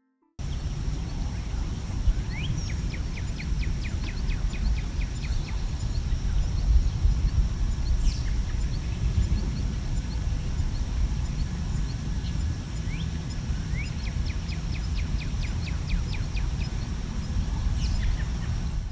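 Outdoor nature recording: birds calling, with rising chirps and two quick trills of short repeated notes, over a steady low rumble.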